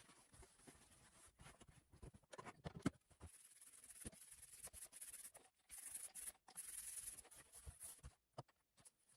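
Faint rubbing and scraping with scattered light knocks and clicks, one sharper click about three seconds in: hand-work sounds during the fitting of the countertop.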